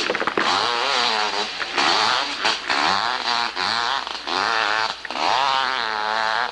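Competition hillclimb motorcycle engine revving hard in a string of short bursts, its pitch wavering up and down as the throttle is worked.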